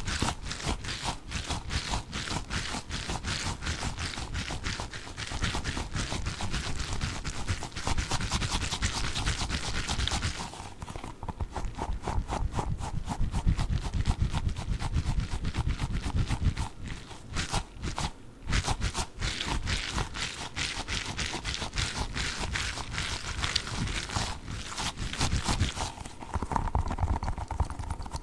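Orange Orbeez water beads being handled close to the microphone: a rapid run of clicks and taps, pausing briefly a couple of times.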